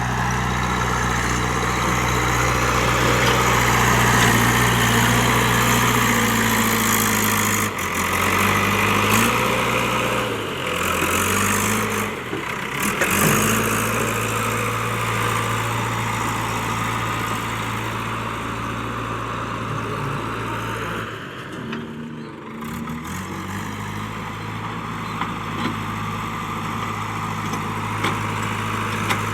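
JCB 3DX backhoe loader's diesel engine running steadily, its note shifting and dipping twice as it works, about a third of the way in and again about three quarters through.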